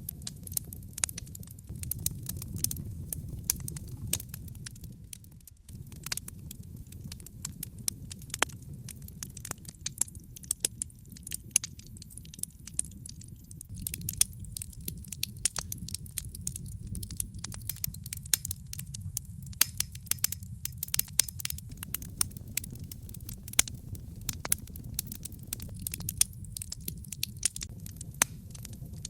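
Logs burning in a fireplace, crackling with frequent irregular sharp pops and snaps over a low steady rumble of the flames.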